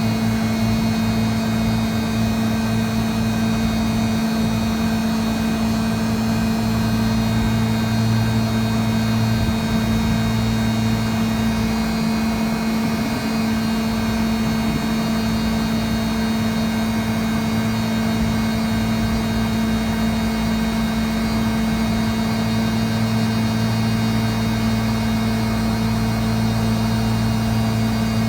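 Air-conditioning unit running with a steady mechanical hum and a few fixed tones. A deeper part of the hum drops away about halfway through and comes back later.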